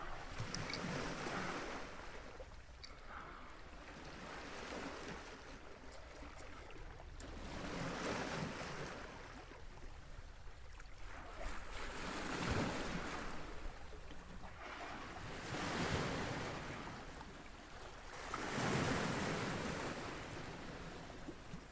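Small waves washing onto a lake shore, the rush swelling and fading every few seconds, with wind on the microphone.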